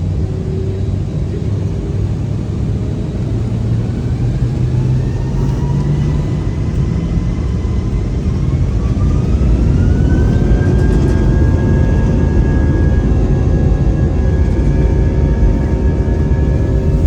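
Airbus A320 jet engines spooling up for takeoff: a whine rises in pitch over several seconds and then holds steady at takeoff thrust, over a low rumble that grows louder.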